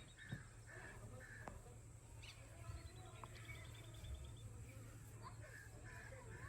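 Faint bird calls: short repeated chirps and a rapid high trill of ticking notes, the trill near the start and again midway.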